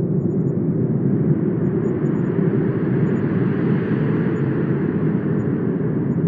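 Wind blowing steadily, swelling into a stronger gust around the middle and easing off again toward the end.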